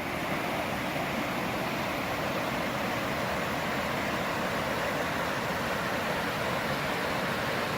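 Waterfall, the steady, even rush of falling water.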